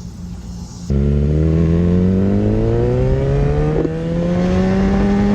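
Motorcycle engine accelerating hard, its pitch rising steadily through one long pull. It cuts in suddenly about a second in and cuts off sharply at the end.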